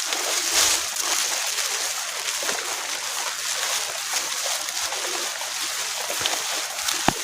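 Light drizzle falling steadily on the forest, an even hiss, with one sharp click near the end.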